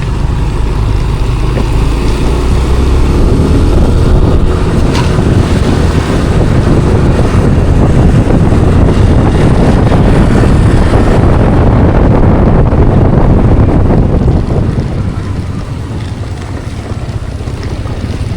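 Wind buffeting the microphone and road noise while riding a Yamaha NMAX scooter at speed. The noise grows louder a few seconds in and eases off near the end, as the scooter slows.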